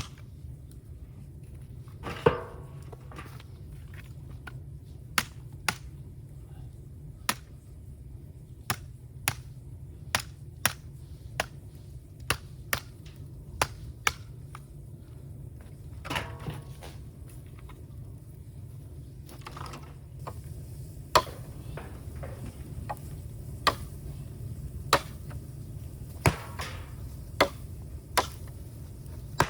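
Bamboo burning in an open fire, crackling with sharp, irregular pops over a steady low rumble, with a few longer crackling bursts.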